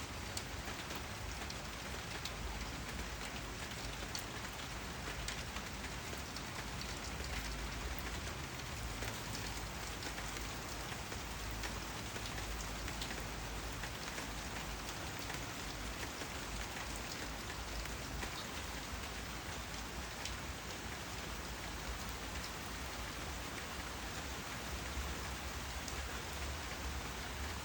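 Steady rain falling, a constant hiss with scattered individual drops tapping on surfaces.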